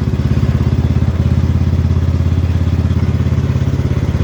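Cub Cadet XT1 Enduro garden tractor's engine running steadily as the tractor is driven, with an even, fast pulse of firing strokes.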